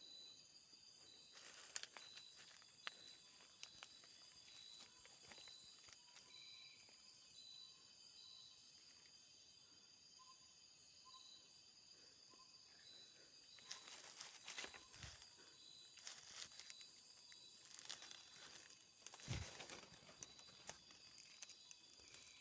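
Faint outdoor ambience with a steady high-pitched insect chorus and a pulsing high note repeating about twice a second. Short rustles and knocks come about two seconds in, and again twice in the second half.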